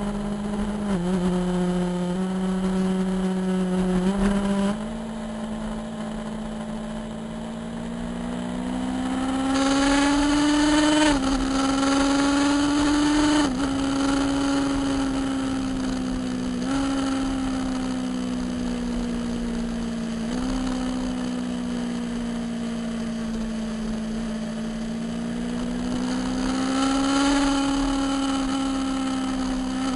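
Motorcycle engine running under way on the road. Its pitch rises and falls with the throttle, with several short sudden dips along the way.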